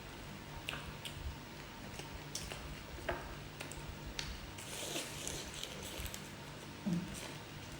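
Close-up eating sounds: scattered small clicks and cracks of prawn shells being peeled and bitten, with a brief crinkling rustle about five seconds in, over a faint steady low hum.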